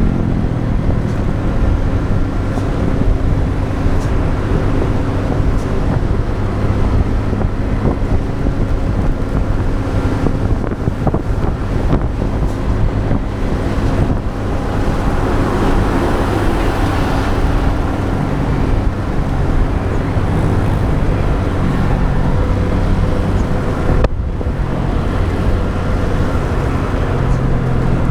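Motorbike engine running steadily while riding, with tyre and wind noise and road traffic around it. A broader rush of noise swells and fades about halfway through.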